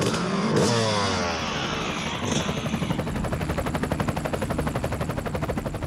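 Dirt bike engine: a rev whose pitch falls away over the first second or two, then running with a rapid, even putter.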